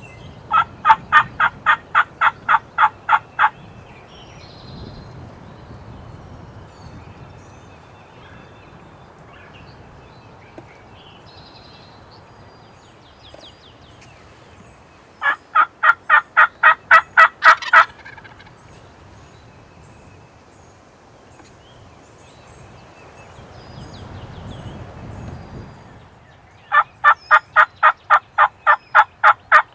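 Hen turkey yelping on a hunter's turkey call: three loud runs of evenly spaced yelps, about four a second, the first about a second in, the second around the middle, the third starting near the end. The calling is meant to lure a lone gobbler whose hen has left him.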